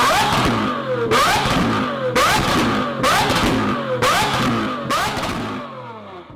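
Lamborghini Aventador's naturally aspirated V12 revved hard about once a second, each rev climbing sharply in pitch and sinking back; the sound fades out near the end.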